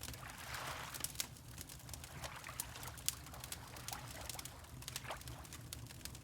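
Wood fire crackling in a fireplace, with frequent sharp pops, over the soft wash of water lapping.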